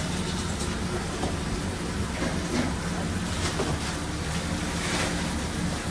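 Steady low mechanical hum of food-truck kitchen equipment under a constant hiss, with a few light clicks.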